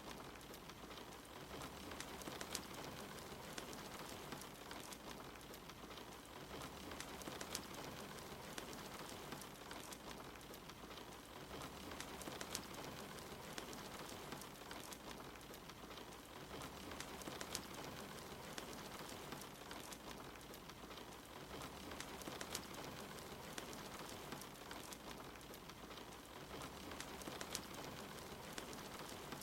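Steady rain with the sharp crackles and pops of a wood fire burning in a fireplace.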